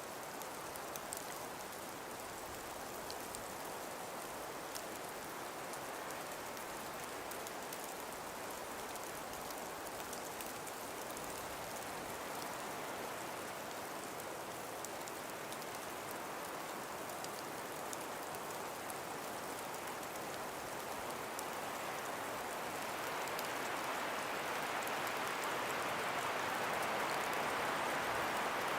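Calm breeze blowing through ice- and frost-covered forest trees: an even hiss that swells louder toward the end, with faint small ticks.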